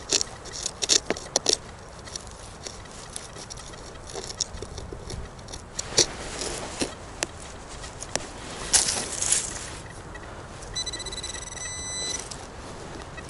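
Crackling and scraping on dry forest-floor leaves and soil, with scattered sharp clicks. Near the end, a metal detector gives one steady high electronic beep lasting about a second and a half.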